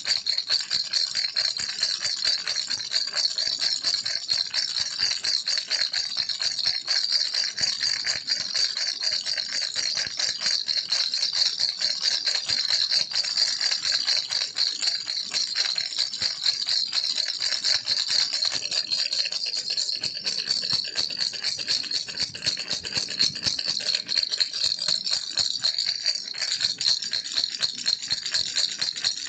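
Baby rattle toy shaken continuously: a fast, even, bright rattling that keeps a steady pace.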